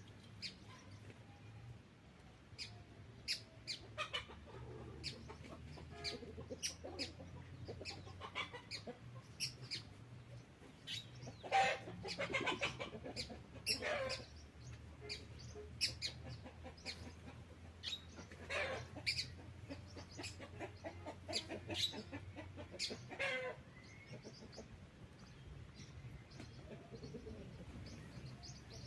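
Birds calling: many short, sharp chirps throughout, with a few louder, longer calls around the middle. A low steady hum lies underneath until near the end.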